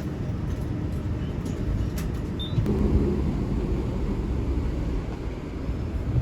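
Steady low rumble of a moving public transit vehicle heard from inside, with a few faint clicks.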